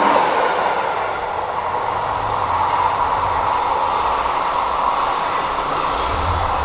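A train passing close by on the mainline: a loud, steady rush of wheels on rails, loudest at the start and easing off a little after about a second.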